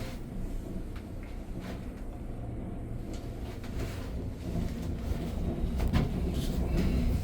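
Steady low rumble inside a moving gondola cabin, with a few light clicks and rattles; the rumble grows louder over the last couple of seconds.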